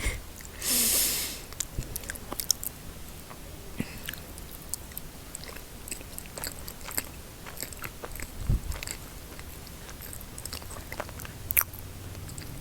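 Close-up eating sounds: a person biting and chewing chocolate snacks, with many small wet clicks of the mouth. A louder burst of crackling noise comes about a second in.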